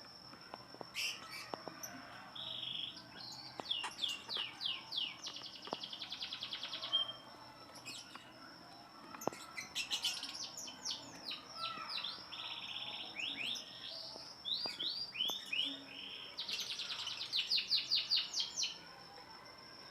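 Lovebirds chirping in fast runs of sharp, high chirps, coming in three main bouts, with a faint steady high-pitched whine underneath.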